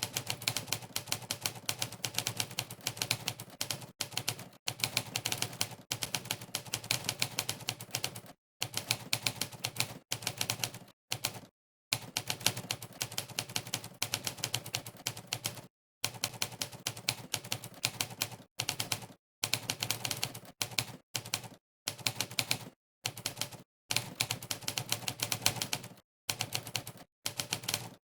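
Monkeytype's typewriter keypress sound effect: a sampled typewriter key strike played for each keystroke, in fast continuous runs of clicks broken by about a dozen short pauses of dead silence.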